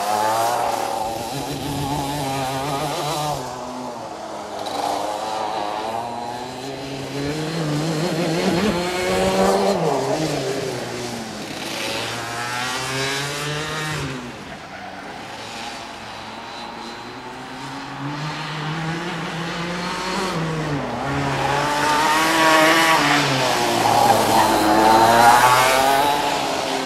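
125cc KF3 two-stroke kart engine at racing speed. Its pitch climbs as it accelerates and drops away when the driver lifts off, again and again through the lap. It is loudest near the start and again about three-quarters of the way through.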